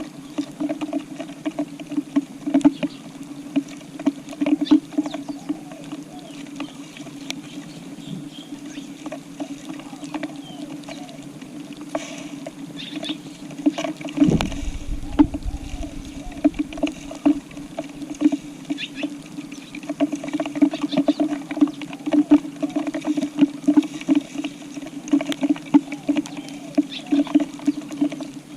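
Tree sparrows pecking grass seed off a tile floor: quick, irregular taps of beaks on tile over a steady low hum, with a low rumble about halfway through.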